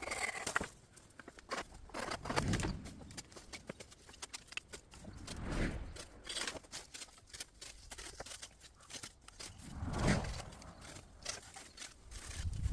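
Irregular rustling and crackling of dry bamboo litter, with footsteps and scattered snaps, swelling now and then with no steady rhythm.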